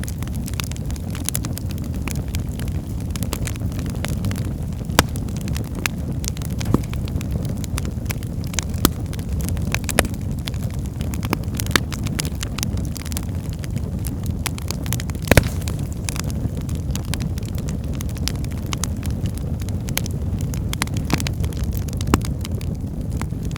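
Fire burning in a fireplace: a steady low rumble of flame with frequent crackles and scattered sharper pops, a few of them louder than the rest.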